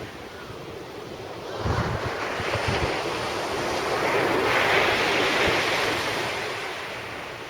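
Surf breaking on the beach: a wave rushes in about a second and a half in, is loudest near the middle and washes back out, with wind buffeting the microphone.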